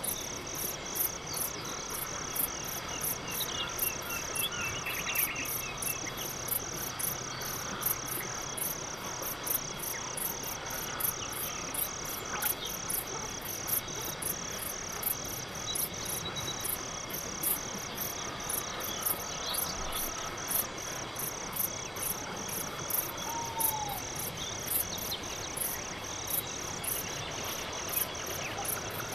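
Crickets chirping in a steady, evenly spaced rhythm in a night forest, with a couple of short falling calls near the end.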